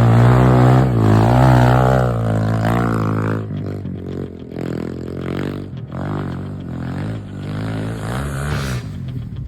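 Yamaha TTR110 pit bike's single-cylinder four-stroke engine through a Pro Circuit exhaust, revving hard with its pitch rising and falling for the first three and a half seconds, then running quieter at lower revs with the throttle opening and closing.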